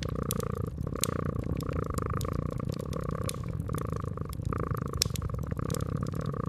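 House cat purring steadily, the purr swelling and easing with each breath, with the small snaps and pops of a crackling wood fire scattered over it.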